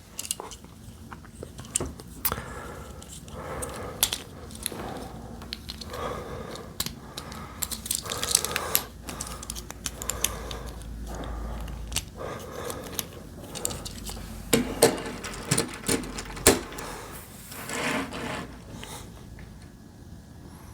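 Plastic Lego pieces being handled and pressed together: scattered sharp clicks and taps with soft rustling between them.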